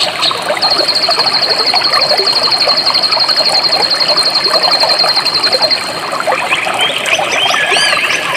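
Jungle stream water flowing and trickling steadily. Over it, a high, rapid, evenly pulsed trill starts about half a second in and stops about six seconds in, followed by several short, varied bird chirps near the end.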